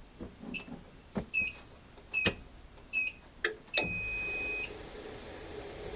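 Treadmill console buttons pressed, each press a click answered by a short electronic beep, four times. Then one longer beep of about a second, and the treadmill's motor and belt start running with a low noise that slowly grows.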